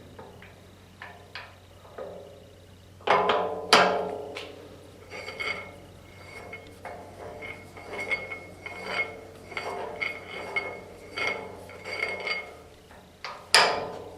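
Metal parts and tools knocking and clinking with a short ringing, as gears and fittings on an old cast-iron lathe headstock are handled and adjusted. Two loud knocks about three seconds in and another near the end, with a run of lighter ringing taps between them.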